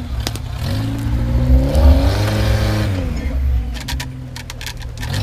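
Off-road Suzuki Samurai's engine revving up under load and dropping back: the pitch climbs over about a second, peaks about two seconds in and falls away by three and a half seconds. A string of sharp clicks follows near the end.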